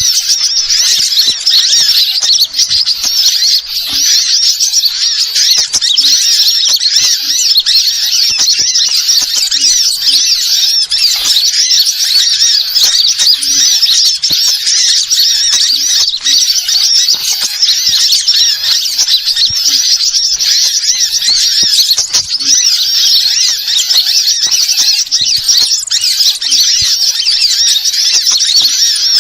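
Bird-lure recording of small birds twittering: rapid, continuous, high-pitched chirping and warbling with no pauses, played loud to attract wild birds.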